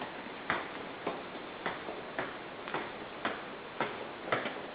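Footsteps climbing a staircase, short even steps about two a second over a steady faint hiss.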